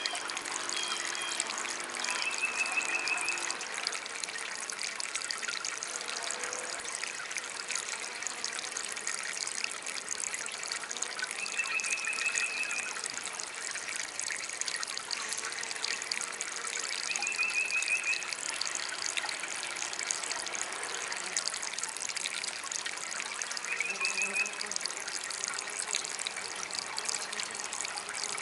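Water trickling steadily from a small DIY fountain, with a short, rapid high trill repeating about every five or six seconds.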